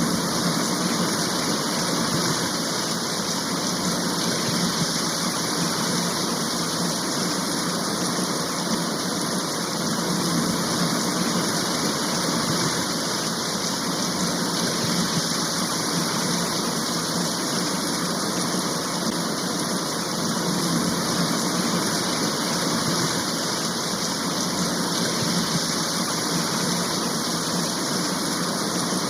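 Steady, loud rain-shower sound, an even hiss with no breaks or changes.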